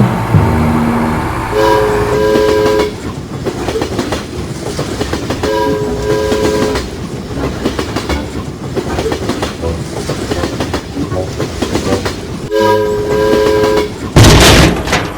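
Train running along the track with a steady clatter, its horn sounding three times, each a short double blast. A loud, noisy burst comes near the end.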